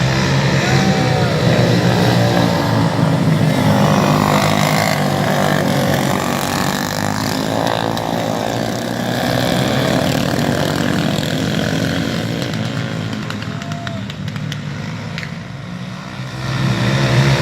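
Several racing motorcycle engines running hard on a dirt track, their notes rising and falling as the bikes accelerate and back off through the turns. The sound fades somewhat near the end, then swells again as the bikes come back around.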